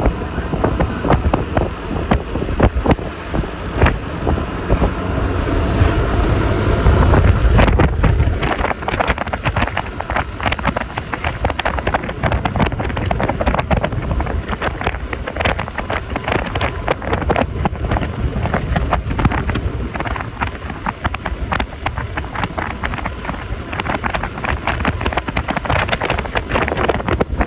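Wind buffeting the microphone with road noise from a Yamaha Lexi LX 155 scooter riding along, its 155 cc single-cylinder engine running underneath. A heavier low rumble swells up about five seconds in and drops away sharply near eight seconds.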